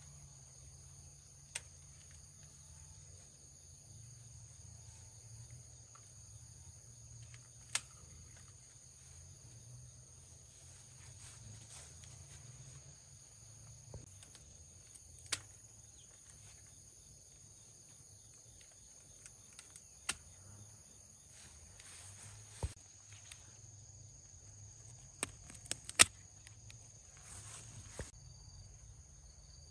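Steady chorus of insects ringing in several high-pitched bands, with sharp isolated clicks or snaps every few seconds, the loudest near the end.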